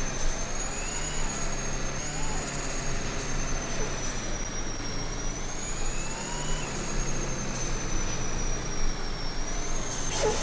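Truck driving on the road: a steady engine drone and road noise, with a thin high whine that slowly drifts up and down in pitch.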